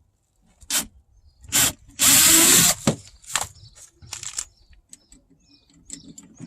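Power drill driving a screw, run in several short bursts with one longer, louder run about two seconds in.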